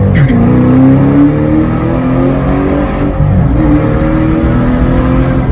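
2012 Shelby GT500's supercharged 5.4-litre V8 running loud through a catless off-road X-pipe exhaust, accelerating under load: the engine note drops, climbs for about a second, then drops again about three seconds in and climbs once more.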